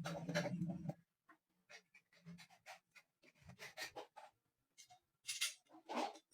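A low electric hum cuts off about a second in, followed by scattered light clicks and two louder scrapes near the end, as parts are handled.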